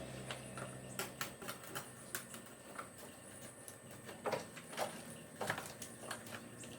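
A run of irregular light clicks and taps, several a second, a few with a short ringing tail, with no engine running.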